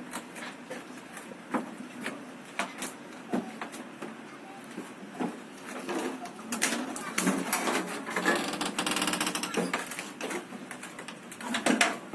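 Passenger train rolling slowly out of a station, heard from its rear end: irregular knocks and clatter from the moving train, denser for a few seconds in the middle, with voices faint in the background.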